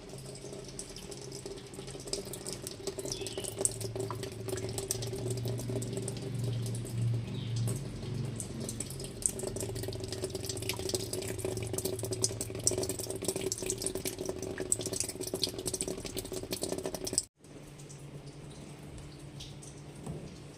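Water running through a washing machine's water inlet valve: a steady rushing spray full of small splashes and drips over a low steady hum. It cuts off abruptly near the end, leaving only a quieter hum.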